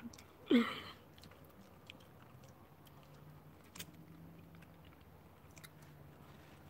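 Faint, close eating sounds: people chewing and licking their fingers while eating soft mash and soup by hand, with small scattered mouth clicks. A short vocal sound comes about half a second in.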